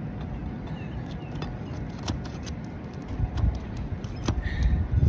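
Scattered clicks, scrapes and knocks of a tool working under a roof shingle to break its glued-down seal, with a few heavier thumps over the last two seconds. A low rumble runs underneath.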